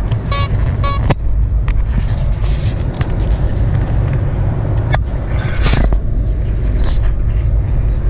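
Car driving along, heard from inside the cabin as a steady low road and engine rumble. Two short electronic beeps sound in quick succession about half a second in, and a few faint clicks and rustles follow.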